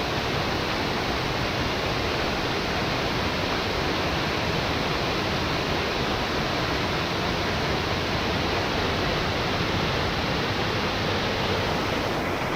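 Steady rush of a fast-flowing mountain stream and cascade, the valley water running high after the monsoon rains.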